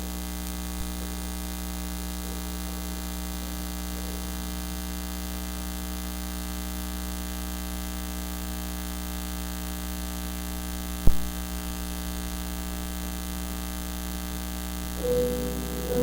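Steady electrical mains hum and buzz in the church's audio feed, a fault in the recording's sound. A single sharp thump comes about 11 seconds in, and keyboard music starts near the end.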